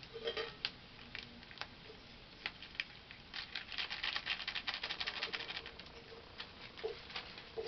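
Onion-and-chilli masala frying in hot mustard oil in a steel karahi, crackling and spitting while a metal spatula stirs it and ground coriander is shaken in. The crackles come in scattered clicks, with a quick thick run of them in the middle.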